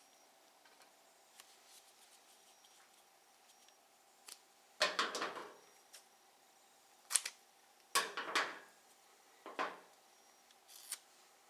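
Double-sided tape being pulled off its roll and cut into strips: five short, noisy bursts of tape and handling sound, the longest two about five and eight seconds in.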